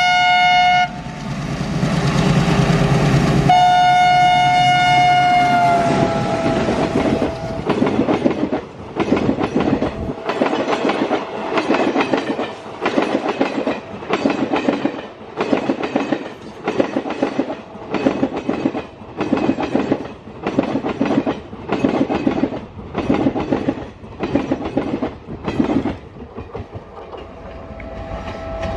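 Alco WDM3A diesel locomotive sounding two long horn blasts, with the loud rumble of its engine between them, and the horn dips in pitch as it passes. Then the coaches roll by with a steady clickety-clack over the rail joints, about one set of clicks a second, which fades out near the end.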